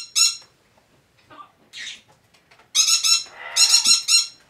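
Double yellow-headed Amazon parrot giving quick runs of short, high, squeaky notes. One note comes at the start, a short hiss follows near the middle, and a loud run of repeated notes comes from about three seconds in.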